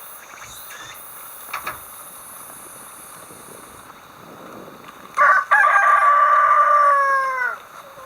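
A rooster crows once, about five seconds in: a short first note, then a long held call that drops in pitch at the end.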